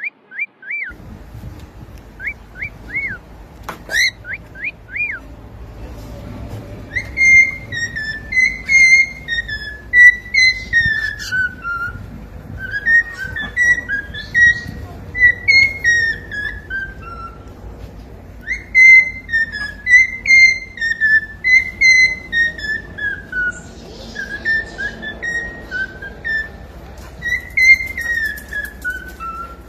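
Cockatiel whistling: a few short up-and-down chirp notes, then a whistled tune repeated several times, each phrase stepping down in pitch over a few seconds.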